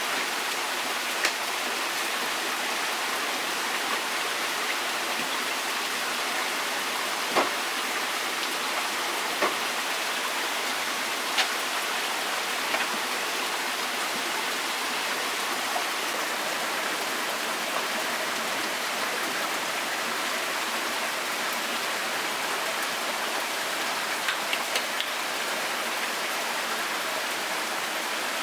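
Steady hiss of water, with a few brief sharp taps or knocks scattered over it and a small cluster of them near the end.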